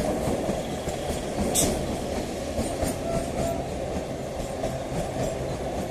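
Electric multiple-unit suburban local train running along the tracks: a steady rumble of wheels on rail, with a brief high hiss about a second and a half in.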